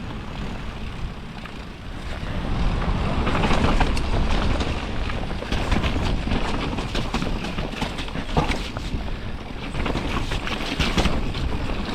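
Full-suspension Radon Swoop mountain bike descending a wet, rutted trail at speed: wind and rain buffeting the camera microphone with a deep rumble, over constant rattling and knocking of the bike and tyres on rough ground. The noise grows louder about two seconds in.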